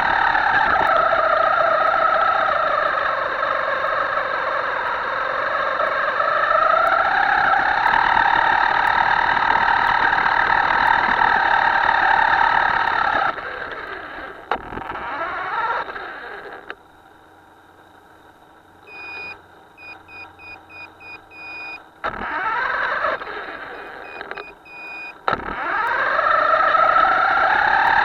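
Himoto RC boat's electric motor whining under throttle. Its pitch dips a few seconds in and climbs again, then cuts off about halfway through. A run of short, high electronic beeps follows, and near the end the motor spins back up with a rising whine.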